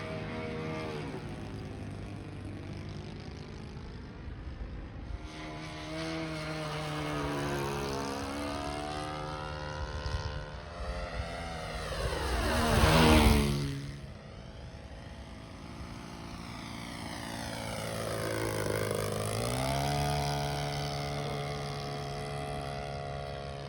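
Radio-controlled Seagull Models Corsair flying past, its propeller engine droning with the pitch rising and falling as it banks and passes. About 13 seconds in it makes its loudest, closest pass, the pitch dropping sharply as it goes by.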